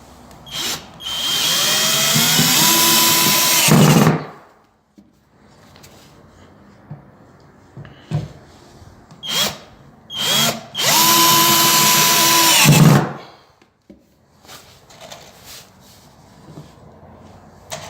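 Power drill driving self-tapping screws through floorboards into the joists beneath, pulling the boards down to cure a squeaky floor. It makes two runs of about three seconds each, the motor's pitch rising and then holding steady before stopping abruptly, with a few small knocks in between.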